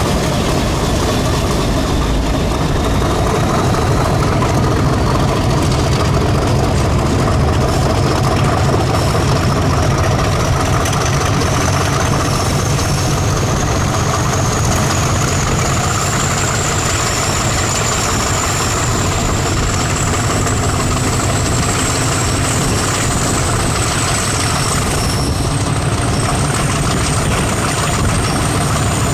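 English Electric diesel-electric locomotive engine running steadily at idle, with a thin high whine that climbs slowly in pitch.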